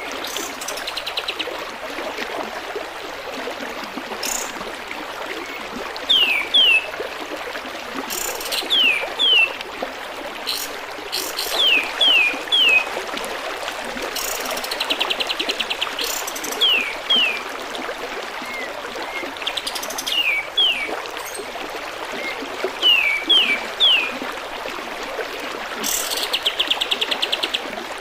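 Kapas tembak birdsong: short, sharp, downward-sliding whistles in quick twos and threes, with a buzzy, rapid trill every dozen seconds or so. Behind it runs the steady sound of a trickling stream.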